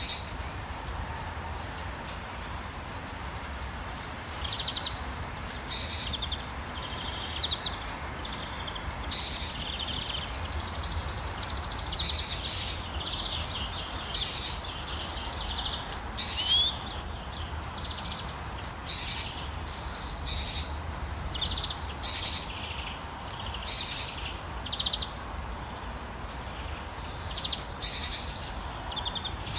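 Songbirds chirping over and over, each phrase a sharp high note followed by a short buzzy run of lower notes, repeating every second or two. A steady hiss of rain runs underneath.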